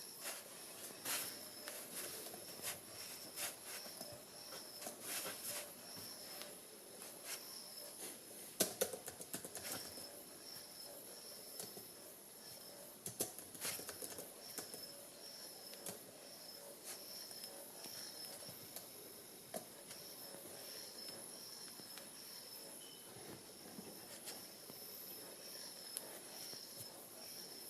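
Hand-spun gyroscope spinning: a faint, high, steady whine that wavers slightly, with irregular sharp clicks, busiest in the first half, which the title calls a twisting noise.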